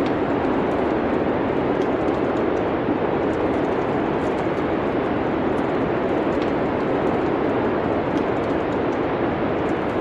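Steady rushing wind of a snowstorm, even and unbroken, with faint, sparse crackles of a wood fire in a fireplace.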